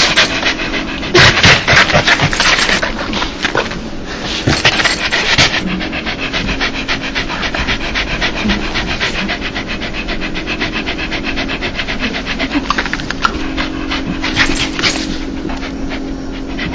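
Dog panting fast and steadily, quick breathy huffs in and out, louder for a stretch about a second in and again near the end. This is the breathy panting a dog makes when happy or excited, known as a dog's 'laugh'.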